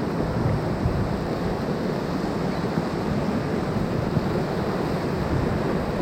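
Whitewater river rapids rushing steadily around a raft.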